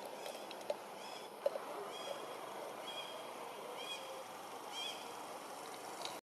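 A bird calling: short, high, arched chirps repeated about once a second over a steady outdoor background hiss, with a couple of faint knocks in the first second and a half.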